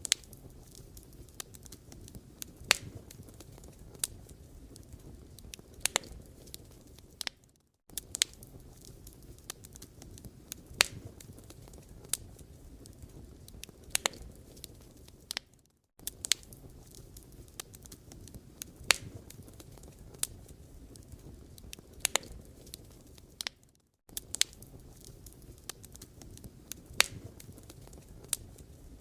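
Firewood burning in an open fire, crackling steadily with sharp, irregular pops over a low rustle. The sound drops out briefly about every eight seconds.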